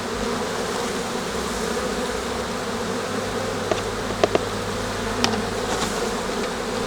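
Steady hum of a mass of honeybees at an open hive, with a few light clicks about halfway through.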